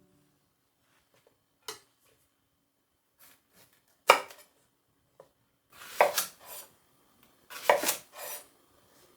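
Kitchen dishes and utensils being handled: a few scattered clinks and knocks, the loudest a single sharp knock about four seconds in, then two short bouts of clattering.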